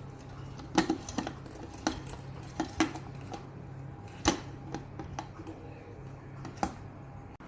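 A series of sharp, irregular clinks and knocks, the loudest about a second in and again near the middle, over a low steady hum.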